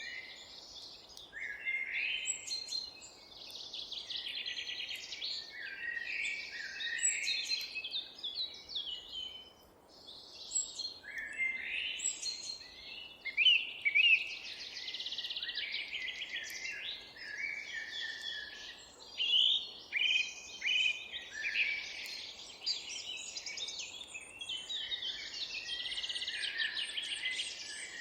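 Several songbirds singing at once, a dense chorus of overlapping chirps and trilled songs, with a few louder sharp calls standing out, over a faint steady outdoor hiss.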